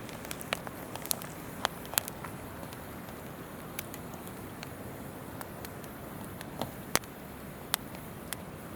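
Wood campfire crackling, with sharp pops at irregular intervals, the loudest about two seconds in and again about seven seconds in, over the steady rush of a flowing river.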